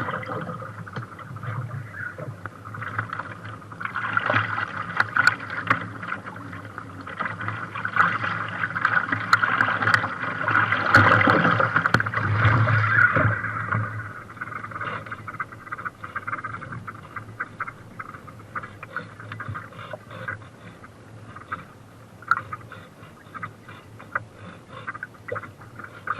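Water rushing and splashing around a small sailboat's hull under sail in strong, gusty wind, with many sharp ticks and slaps. It is loudest about ten seconds in, then eases to a lower wash.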